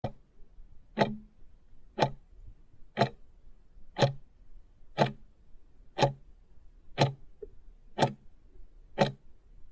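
A clock ticking steadily, one sharp tick a second, about ten ticks in all.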